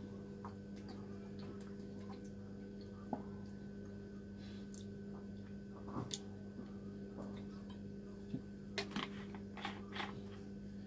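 Faint, scattered small clicks and soft mouth sounds of someone drinking from a plastic water bottle, more of them near the end, over a steady low hum.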